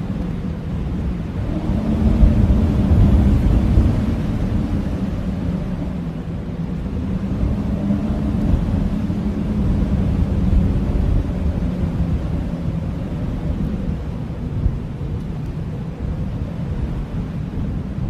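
Blizzard wind howling: a steady low rush of wind with faint moaning tones that swell about two seconds in and again about eight seconds in.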